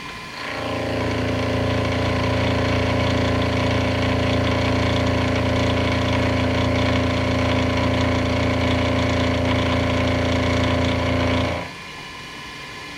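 Small milling machine's motor starting up, running at a steady hum for about eleven seconds, then switching off.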